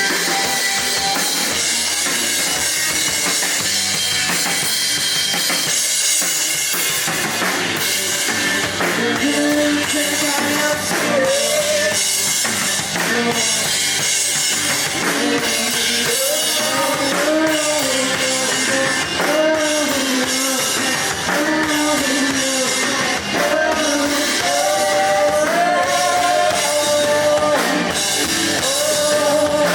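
Indie rock band playing live and loud, drum kit driving with guitars and bass filling the mix. About a third of the way in a wavering melodic line comes in over the top and carries on.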